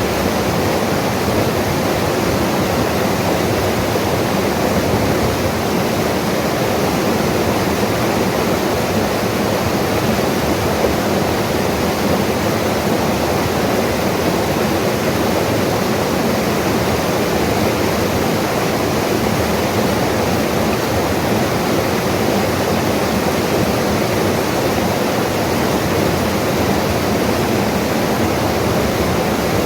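Mountain river rushing over rocks: a loud, steady roar of running water that does not change.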